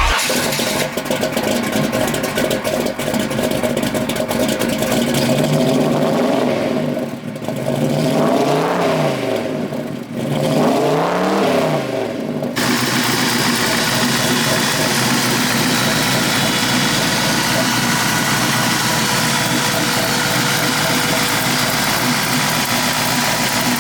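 Chevrolet 327 cubic-inch V8 with twin Holley carburetors and headers idling, revved briefly twice, a few seconds apart near the middle, then settling into a steady idle.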